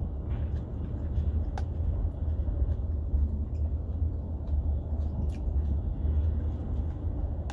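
Steady low rumble of a nearby diesel engine running, with a few faint clicks over it.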